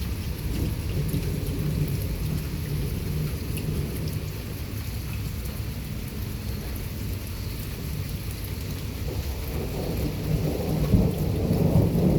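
Thunder rolling in a long, low rumble, growing louder near the end, over the steady hiss of rain.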